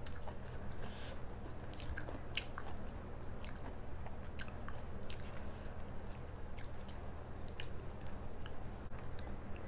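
Close-miked eating sounds: chewing, with scattered small wet clicks and crackles as paratha flatbread is torn apart by hand, over a steady low hum.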